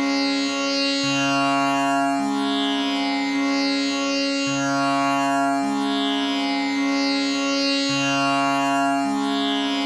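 Tanpura drone tuned to C sharp (A=440), its strings plucked one after another in a steady repeating cycle of about three and a half seconds, each note ringing on under the next.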